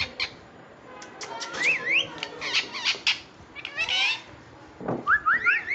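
Pet green parrot squawking and chirping, with sharp clicks and short rising whistles, ending in a quick run of rising whistle notes.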